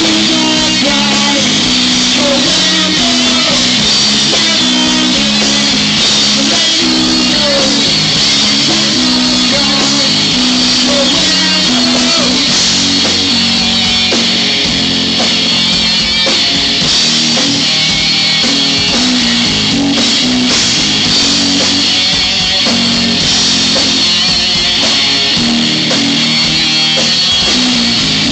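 Live rock band playing loudly and steadily: electric guitar, bass guitar and drum kit.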